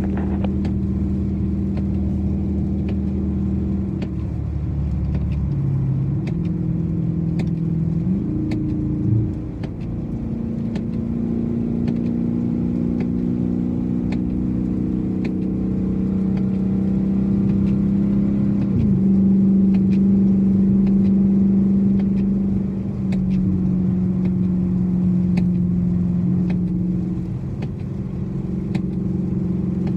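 Dodge Challenger R/T's 5.7-litre HEMI V8 running on the road, its engine note shifting up and down several times as it changes speed and gear, with a quick rise about eight seconds in and another change near the middle. Steady road rumble underneath, with faint scattered ticks.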